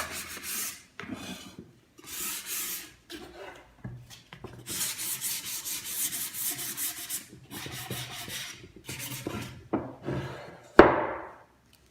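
Sandpaper rubbed by hand over the wooden surfaces of a monitor stand, in repeated hissing strokes with short pauses, smoothing the wood. Near the end there is a single sharp knock, the loudest sound.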